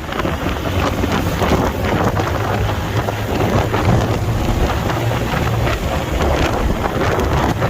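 Wind buffeting the microphone on a moving motorcycle, a steady rushing noise with crackles, over the low, steady drone of the bike's engine.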